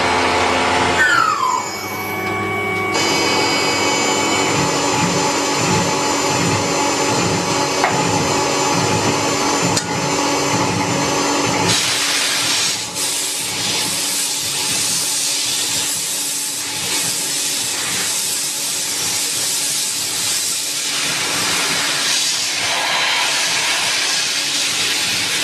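Metalworking machine tools running. At first there is a steady hum of held tones, with a falling tone about a second in. About halfway through it changes suddenly to a loud, even hiss.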